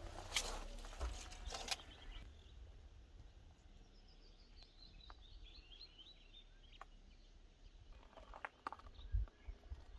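Quiet outdoor ambience: a bird sings a run of about a dozen short high notes that step down in pitch, a few seconds in, over a steady low rumble, with some rustling and knocks at the start.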